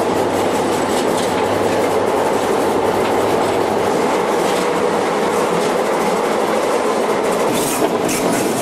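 Diesel freight locomotive running along the track, heard from the front of the train: a steady drone of engine and rolling wheels with a low hum underneath. A quick run of sharp clicks from the wheels comes near the end.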